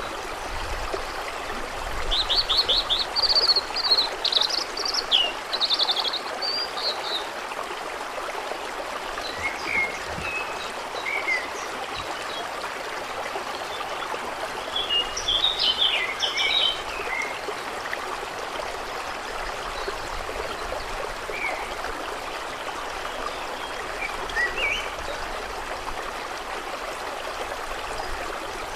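Steady trickling, running water, with small birds singing over it: a rapid trilled phrase a couple of seconds in, another burst of song about halfway through, and scattered short chirps.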